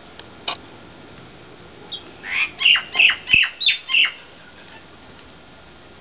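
A bird squawking: a quick run of about six loud, harsh calls, each dropping in pitch, about two seconds in. Two sharp clicks just before.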